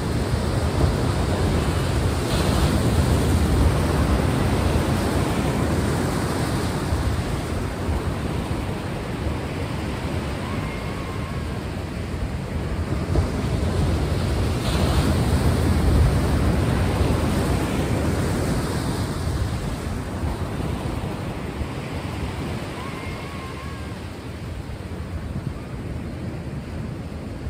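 Ocean waves washing in and out on a shore, a steady surf that swells twice to a louder crest and then eases off.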